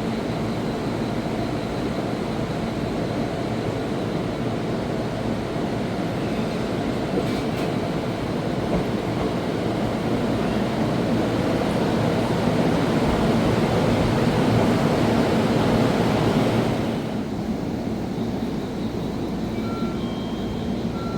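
Electric commuter train pulling out of the station after its doors close, its running noise building as it moves off and then falling away sharply about three quarters of the way through.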